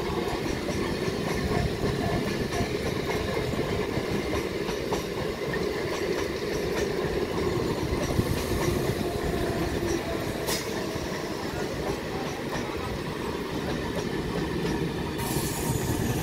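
Eastern Railway electric multiple-unit local train passing close by: a steady rumble of wheels on rail with rapid clattering. One sharp clank comes about ten seconds in, and a high hiss comes in near the end.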